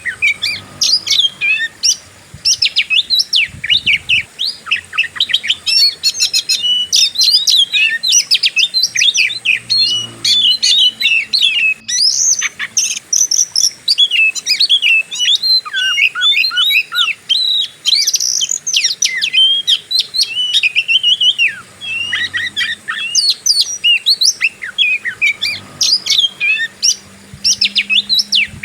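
Oriental magpie-robin (kacer) singing a long, unbroken run of rapid, varied whistles and chirps in its 'fighting' style.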